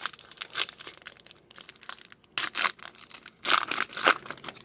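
Crinkling and tearing of a hockey card pack's wrapper being ripped open by hand, a quick run of crackles with the loudest rips a little past the middle.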